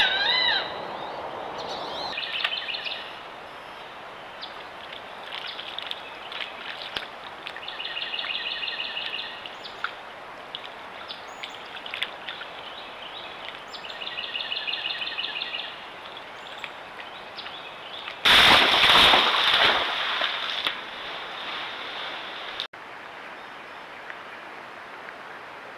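Birds calling: a single call right at the start, then a short trilled song that repeats about every six seconds. Near the end a loud rushing noise lasts about two seconds.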